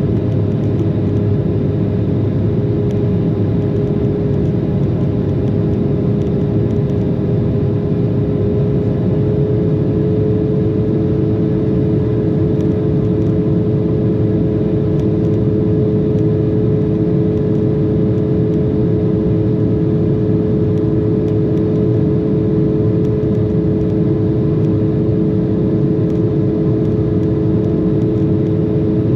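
Steady cabin noise of an Embraer 190 airliner climbing under power: an even rumble with the steady hum of its CF34 turbofan engines, and a second, lower hum joining about ten seconds in.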